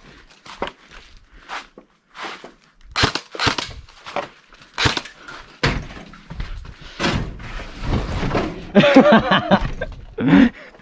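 Running footsteps: a run of irregular thuds and knocks, a little under a second apart, coming faster from about three seconds in.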